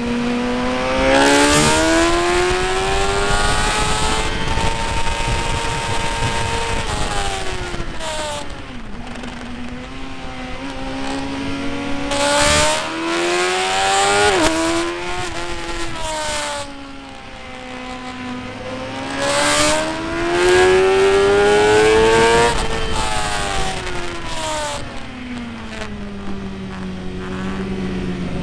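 Motorcycle engine at racing speed on a circuit. Its pitch climbs under acceleration and falls away in long sweeps, with a few sudden drops as it is shifted or shut off. Bursts of wind rush come and go over it.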